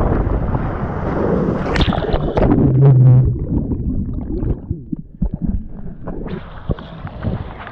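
Wind buffeting the camera microphone over rushing, splashing water, the rumble easing off a little past the middle.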